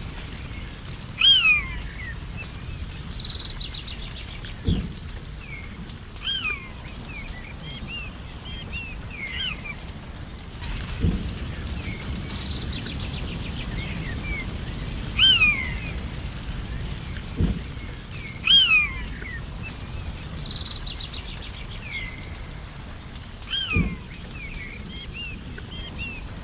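Forest birds calling: loud down-slurred whistled calls repeated every few seconds, with short buzzy trills three times, over a steady low rushing background noise and a few soft low thuds.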